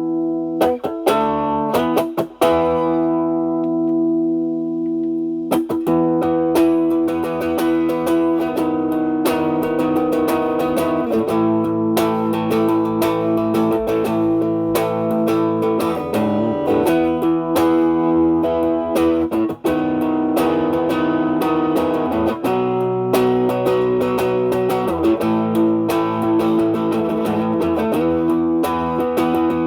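Electric guitar, a Stratocaster with single-coil pickups, played through an Ibanez Tube Screamer Mini overdrive pedal with its drive knob around 3 o'clock, into the clean channel of a Marshall Valvestate amp. One chord rings out for about five seconds, then a run of picked notes and chords follows.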